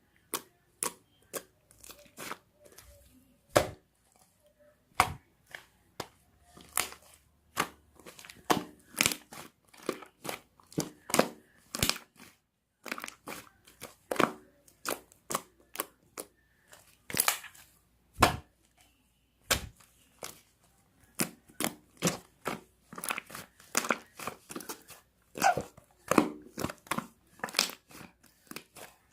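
Irregular sharp crackles and crinkles, dozens of them, as of something being crumpled or torn by hand.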